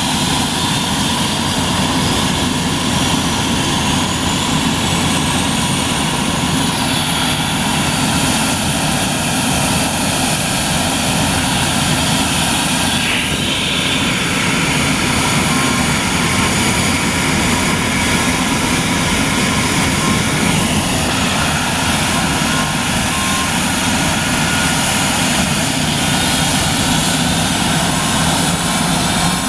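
Air-ambulance helicopter's turbine engine and rotor running steadily, with a high turbine whine that rises in pitch over several seconds, then holds steady.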